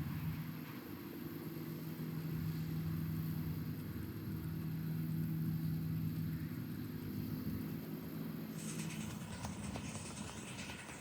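A small engine running steadily at low speed. Near the end a hissing clatter of fine clicks comes in over it.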